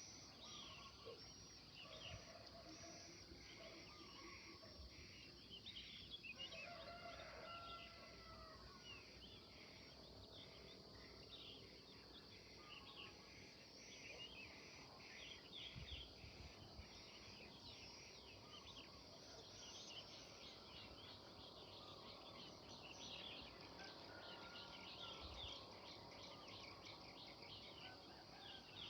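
Many songbirds chirping, quick short chirps and a few longer whistled phrases overlapping, over a steady high hiss.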